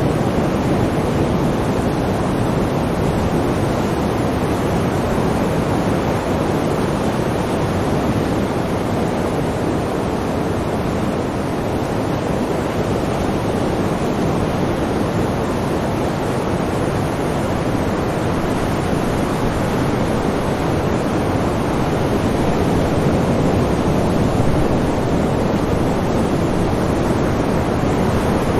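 Sea waves surging in a continuous surf wash, swelling and easing slowly without a break.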